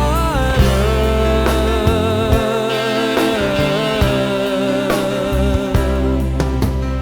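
Instrumental break of a pop-rock song: a lead melody line holds long, wavering notes over bass and a steady drum beat. The melody rises in a short glide right at the start.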